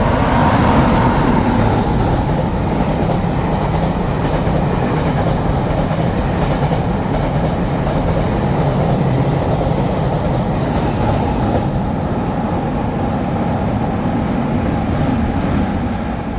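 A Taiwan Railways train runs through the station at speed without stopping: a loud, steady rush of wheel and rail noise with rapid clicking from the wheels over the track. It eases off near the end as the train clears the platform.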